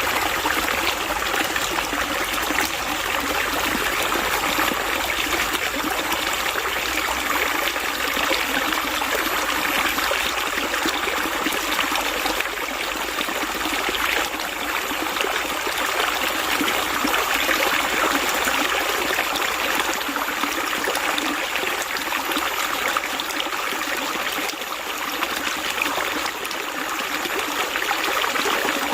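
Water running and trickling steadily, like a small stream over stones, with no pauses or changes.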